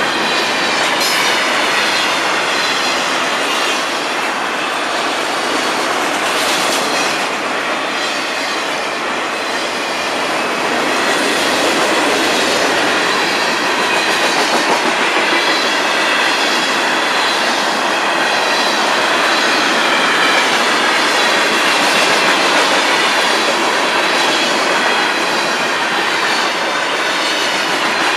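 Freight cars of a long FEC freight train rolling steadily past over a grade crossing: continuous rumble and clatter of steel wheels on the rails, with a faint wavering high squeal of wheels on the rail.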